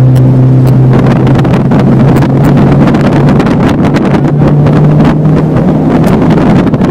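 Motorboat engine running steadily underway, its pitch lifting slightly about four seconds in, with wind buffeting the microphone and water rushing past the hull.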